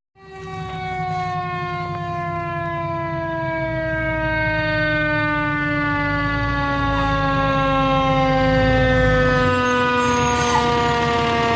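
Fire engine siren sounding one long tone that slowly falls in pitch while growing louder, over a low engine rumble that stops near the end.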